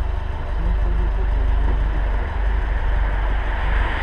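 Car engine running steadily at low revs: a continuous low rumble with no rev changes.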